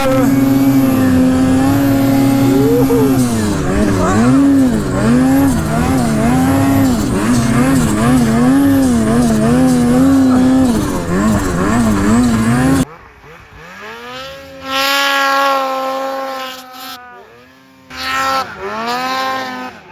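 Snowmobile engine running hard, its pitch rising and falling with the throttle, then cutting off abruptly about thirteen seconds in. After that, a quieter snowmobile engine revs up and down in two bursts.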